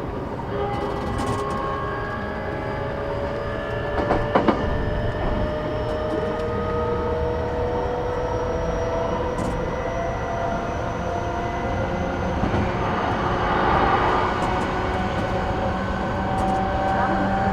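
Onboard running sound of an E233-8000 series electric train: the traction motor whine rises slowly in several tones as the train gathers speed, over a steady rumble of wheels on track. Two sharp clacks from the rails come about four seconds in.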